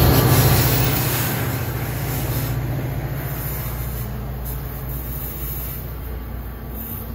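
Diesel train moving away, its engine and rolling noise loudest at the start and fading steadily.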